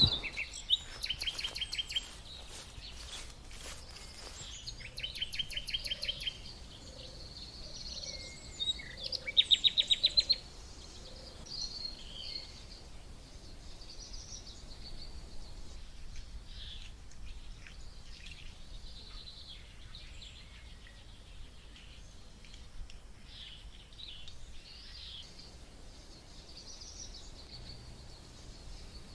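Songbirds chirping and calling, with three fast trills of rapid repeated notes in the first ten seconds, then scattered short high chirps over a faint outdoor background hiss.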